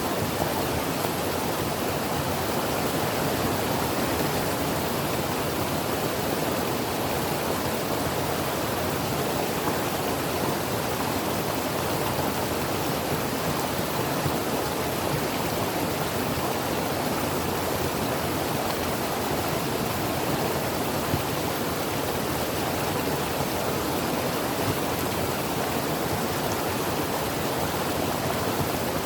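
Creek water flowing steadily over rocks, an even rushing hiss with no change.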